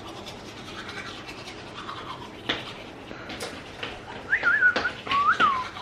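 Teeth being brushed with a toothbrush, a soft steady scrubbing with a few small clicks. Near the end come two short high whistled phrases that wobble, rise and fall.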